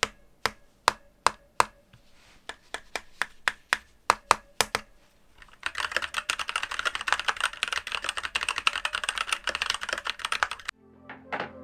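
Stock, unmodified Keychron K8 Retro aluminium mechanical keyboard with brown switches being typed on: separate key presses a few times a second, then from about six seconds in a fast continuous run of typing. The typing cuts off near the end and music starts.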